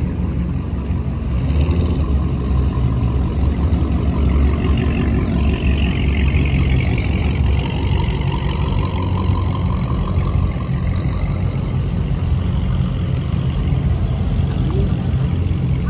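Car engines idling with a deep, steady low rumble, and a fainter engine note gliding up and down in pitch through the middle.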